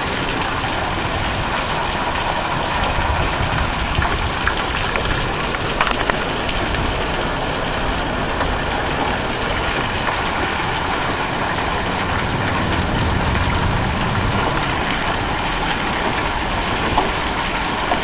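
Heavy rain pouring steadily in a thunderstorm, with a few sharp taps of small hail and wind rumbling on the microphone.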